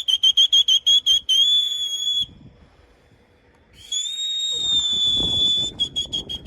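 Two long, high, steady whistles, each breaking into a quick run of short chirps, with a pause of about a second and a half between them.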